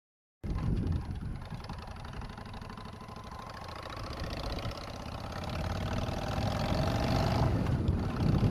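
Motorcycle engine running, its pitch and loudness creeping slowly upward. The sound starts abruptly about half a second in.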